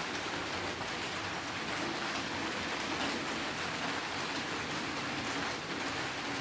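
Steady rain falling on the roof, a continuous even hiss.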